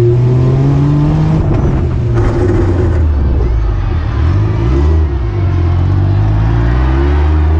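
Daihatsu Mira's engine running hard on the throttle, heard from on board the car. The revs drop and climb again about halfway through, then hold high.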